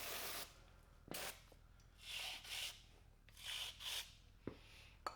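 Rust being scrubbed off metal by hand: short scrubbing strokes, about six, several in quick pairs with pauses between, and a small knock near the end.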